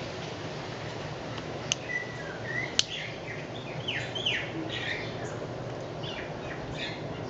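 Wild birds chirping, a run of short calls, some falling in pitch, starting about two seconds in over a steady background hiss. Two sharp clicks come before and among the first calls.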